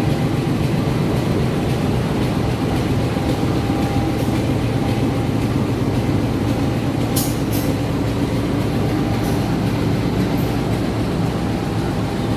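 Train rolling past at close range: a loud, steady rumble of wheels on rails, with a couple of sharp clicks about seven seconds in.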